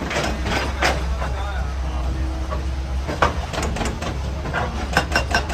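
Excavator's diesel engine running with a steady low rumble, under repeated knocks and clatter of rock and metal, more frequent near the end.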